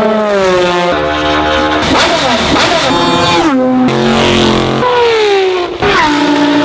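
Ferrari engine running at high revs, loud, its pitch jumping in several sudden steps, with a rising sweep about two to three seconds in.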